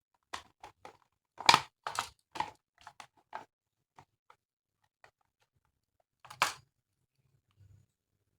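Plastic toy pieces handled and clicked together: a quick run of short clicks and rustles over the first few seconds, then one louder click about six and a half seconds in.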